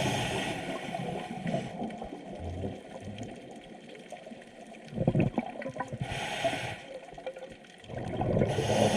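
Scuba diver breathing underwater: a regulator hisses on each inhalation, with gurgling bursts of exhaled bubbles in between.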